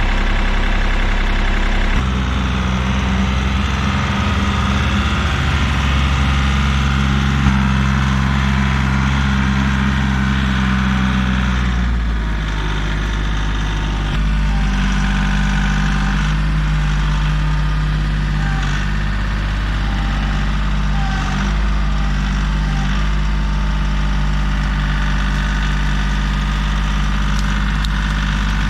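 Kioti CK3510 compact tractor's diesel engine running steadily, its engine speed changing about two seconds in and dropping about twelve seconds in.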